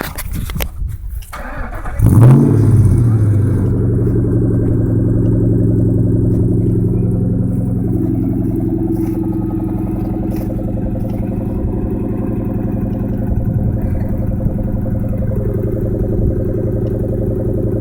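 2003 Ford Mustang Mach 1's 4.6-litre DOHC V8 breathing through a Magnaflow exhaust, starting up about two seconds in with a brief flare in revs, then settling into a steady idle.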